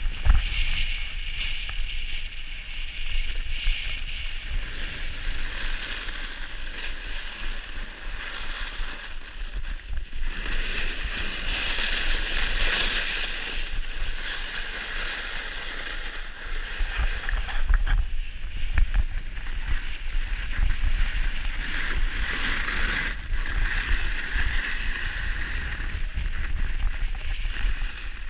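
Steady hiss of a downhill run on a ski slope, with the scraping of edges on snow swelling and fading in waves, as in turns, and wind rumbling on the microphone.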